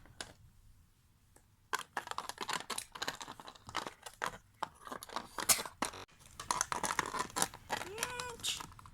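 Plastic Littlest Pet Shop figures and a toy wagon being handled and moved: a quick run of small clicks, knocks and rustles starting about two seconds in, with a brief pitched sound near the end.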